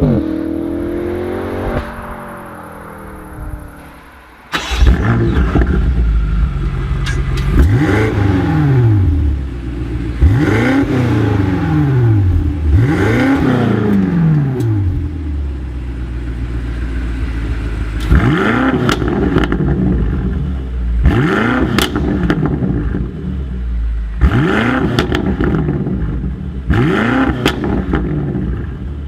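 BMW M5 (F90) twin-turbo V8 through an Akrapovič exhaust. The engine note falls away over the first few seconds, then jumps back loud about four and a half seconds in. It is then revved again and again, each rev climbing and falling back, with crackles and pops as the revs drop.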